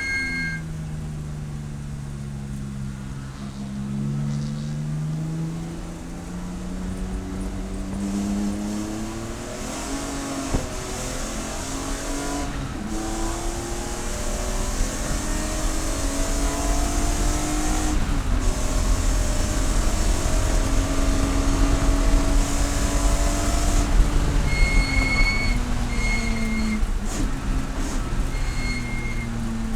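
Race car engine running hard on track, its pitch climbing under acceleration and dropping through braking and downshifts, with tyre and road noise underneath. Short, steady electronic beeps sound a few times near the end.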